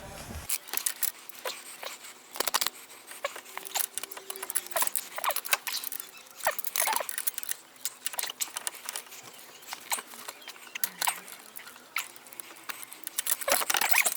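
Irregular clicks and light metallic rattles from a ratchet and socket working a bolt on the starter motor's cable bracket, a few clicks a second.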